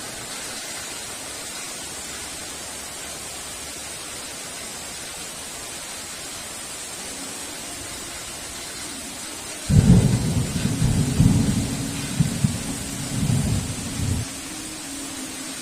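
Steady heavy rain, then a sudden loud clap of thunder about two-thirds of the way in that rumbles in surges for about four seconds before dying back to the rain.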